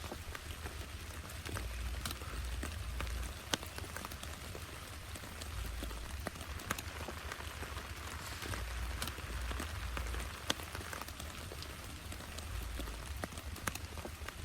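Heavy rain falling, with many individual drops ticking sharply on a nearby surface over a steady hiss, and a low rumble underneath.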